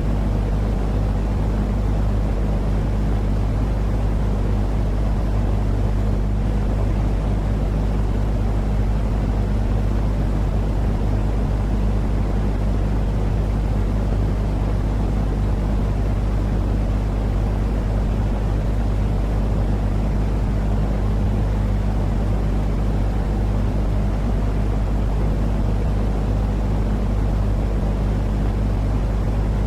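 Continuous low rumbling noise with a steady deep hum underneath, unchanging throughout: a soothing sleep-noise track for calming a crying, colicky baby.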